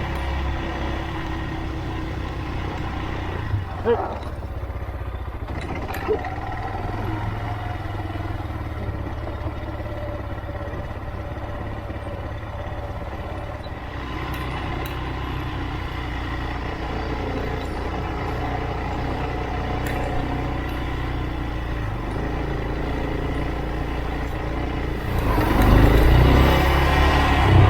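Motorcycle engine running at riding speed, with a steady low rumble and wind noise on the microphone. There are two short knocks about four and six seconds in, and the sound grows louder near the end.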